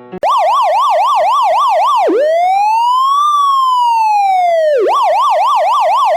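Electronic emergency-vehicle siren, loud, in a fast yelp warbling up and down about four to five times a second. About two seconds in it changes to one slow rising-and-falling wail, then switches back to the fast yelp near five seconds.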